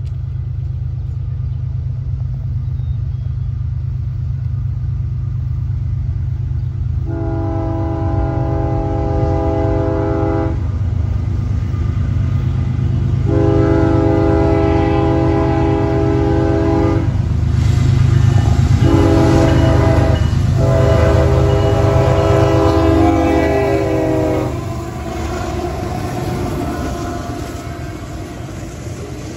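Canadian Pacific diesel freight locomotive blowing its air horn in the grade-crossing pattern, long, long, short, long, starting about a quarter of the way in. Under the horn a low, steady locomotive rumble grows louder as the engines approach and pass. Near the end the loaded freight cars roll by.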